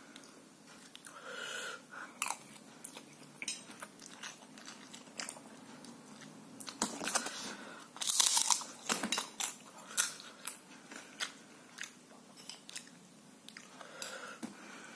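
A person chewing and crunching crisp food close to the microphone, with a dense run of sharp crackling bites loudest about halfway through.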